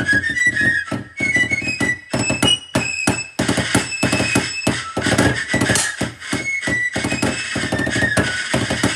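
Snare drum played in rapid rudimental strokes under a high fife melody, a fife-and-drum tune.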